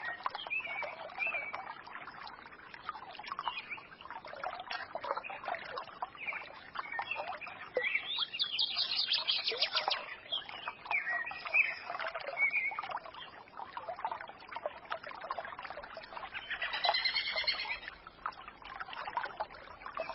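Small forest stream babbling steadily, with songbirds chirping and twittering over it; the bird calls grow busier about halfway through and again near the end.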